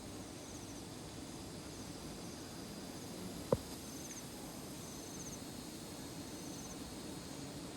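Insects chirping in short, high trills about every second and a half over a steady low background rush. A single sharp click sounds about three and a half seconds in.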